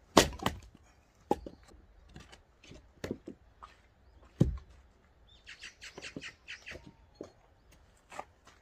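Firewood being split with an axe: a loud chop just after the start, then further knocks about a second and a half, three and four and a half seconds in. Around the middle, a bird gives a rapid chattering call of about eight notes.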